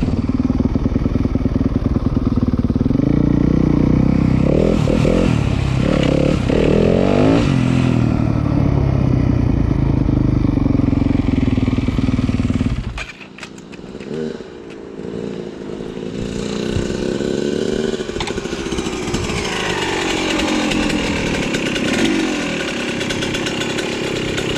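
Dirt bike engine running loud with its pitch rising and falling through the throttle, cutting off abruptly about halfway through. Then a second dirt bike engine is heard, quieter at first and growing louder as it revs.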